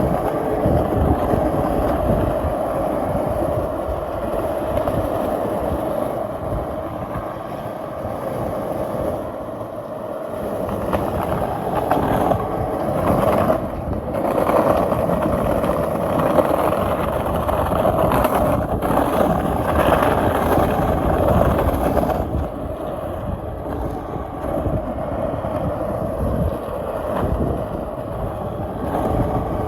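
Skateboard wheels rolling over pavement: a steady, continuous rumble that eases off a little about a third of the way in and again in the last part.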